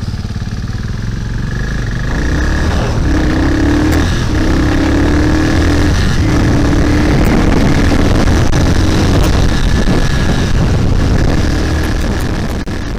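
Bristol Classic 400i motorcycle accelerating hard under heavy wind rush. The engine note climbs in repeated steps, breaking off and starting lower each time as it shifts up through the gears.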